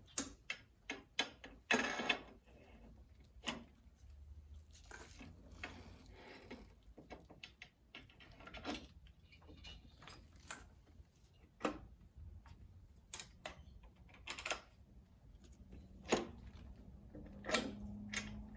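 Irregular metallic clicks and knocks as the steering-stem parts and top nut of a motorcycle's lower triple tree are handled and fitted, a few louder knocks among them.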